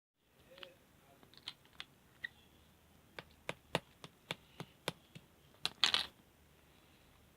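Slime being pressed and poked, giving a run of sharp, irregularly spaced clicks and pops, with a short crackling cluster near the end.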